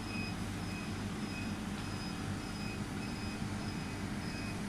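Steady machine hum with background noise, and a faint high tone pulsing about twice a second.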